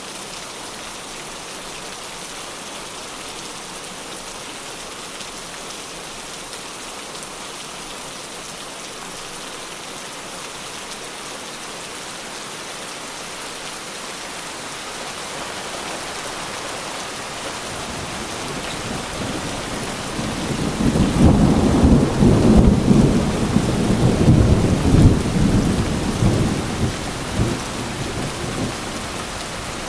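Steady rain falling, with a long roll of thunder that builds from about halfway through, is loudest for several seconds and dies away near the end.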